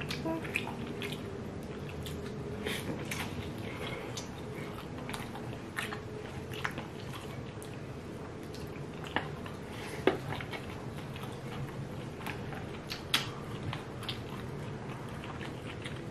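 Close-up eating sounds: dumplings being bitten and chewed, with wet mouth noises and scattered short clicks. The sharpest clicks come about ten and thirteen seconds in.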